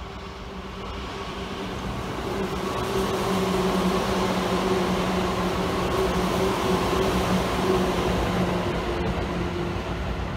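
Seibu 10000 series limited-express train passing through a station at speed. A rush of running and wheel noise swells over the first few seconds and holds, with a steady hum underneath.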